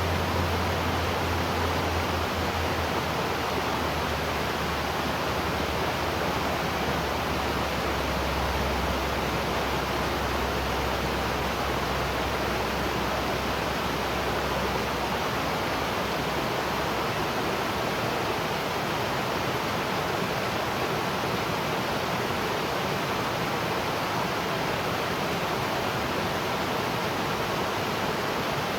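Waterfall: a steady, even rush of falling water. A low rumble sits underneath it in the first half and fades out about halfway through.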